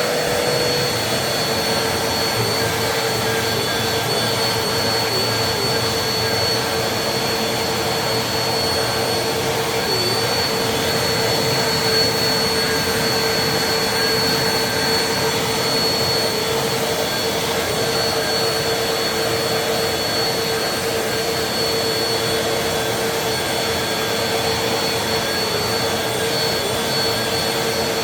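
Vacuum cleaner running steadily: an unbroken rushing noise with a constant hum and a thin high whine over it.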